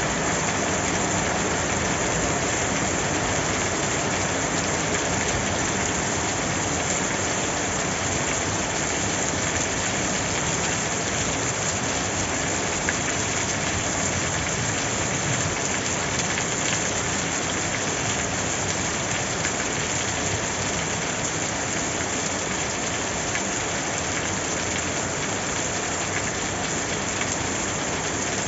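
Steady rain falling, an even dense hiss.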